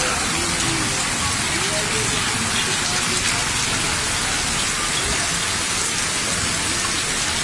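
Heavy rain pouring onto a paved road and street, a dense, steady hiss of drops hitting wet pavement.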